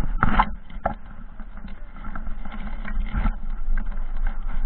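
Off-road dirt bike engine running at low revs, with a few short sharp noises over it, the loudest just after the start.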